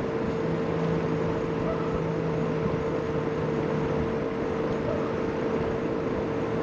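A motor running steadily with a constant hum, over a rough rushing noise; a lower hum joins in for the first few seconds.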